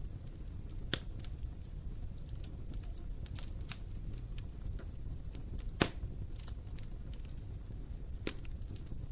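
Wood fire burning in an open fireplace: a steady low rumble of flames with scattered sharp crackles and pops, one loud pop just before six seconds in.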